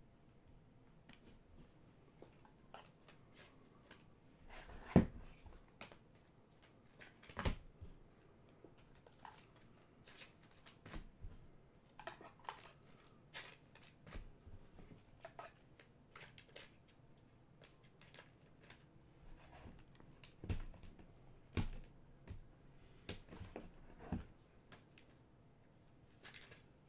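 Panini Prizm basketball cards and packs being handled: cards sliding and flicking, with scattered light taps and clicks, the loudest about five seconds in.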